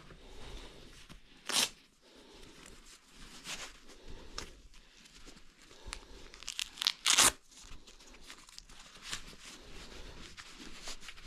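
Old building material being torn and scraped off by hand: crackly tearing and crunching, with a sharper rasp about a second and a half in and a louder cluster of rips around the middle.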